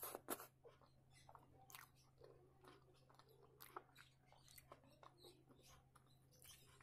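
Faint close-up chewing of a mouthful of rice eaten by hand: soft wet smacks and small mouth clicks, a few louder ones in the first half second, then scattered quieter ones.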